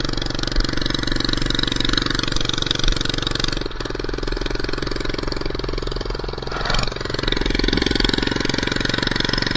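Minibike's small engine running steadily while being ridden, with a brief drop about four seconds in.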